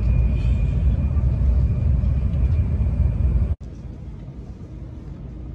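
Cabin running noise of an N700S series shinkansen: a steady low rumble. About three and a half seconds in it cuts off abruptly and comes back much quieter, as the train rolls slowly along the platform while pulling into a station.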